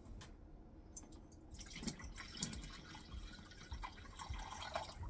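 Vinegar being poured into a bowl: liquid splashing and trickling, starting about a second and a half in.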